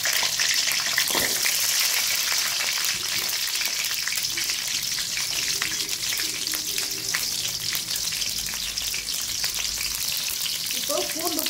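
Small onions (shallots) frying in hot oil in a kadai: a steady sizzle with fine, dense crackling, the pieces stirred with a spatula.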